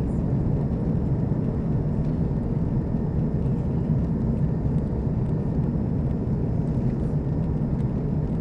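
Airplane taking off: a steady, low rumble of its engines.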